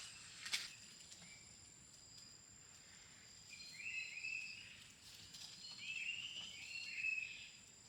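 Steady high-pitched drone of insects, with a sharp click about half a second in and several short high chirping calls in the second half.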